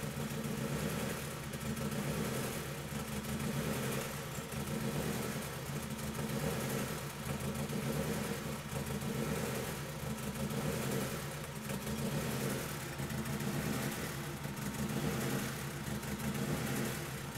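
Turbocharged 2000 Honda Civic EX's 1.6-litre four-cylinder idling, the sound swelling and fading about every two seconds. The engine is running extremely rich: even with 100% of the fuel pulled from the AEM F/IC map, the mixture stays below 7.35 AFR.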